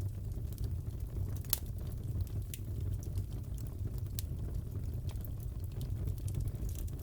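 Crackling wood fire in a fireplace: a steady low rumble with irregular sharp pops and snaps, one louder pop about a second and a half in.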